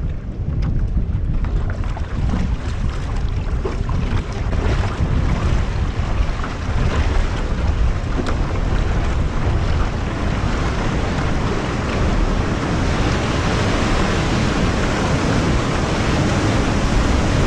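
Stormy wind and surf making a loud, steady rushing noise, with wind buffeting the microphone.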